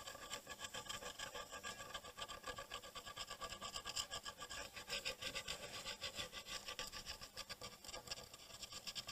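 Faint, continuous scratching and rubbing of a tool worked over the copper tracks of a circuit board.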